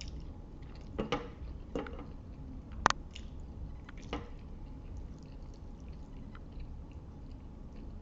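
Close-up chewing of a mouthful of spaghetti with meat sauce, wet mouth sounds, broken by a few sharp clicks in the first half, the loudest about three seconds in.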